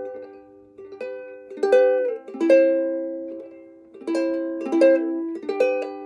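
Instrumental accompaniment of strummed chords on an acoustic plucked string instrument. The chords come in two groups of three strums, each strum ringing and fading before the next.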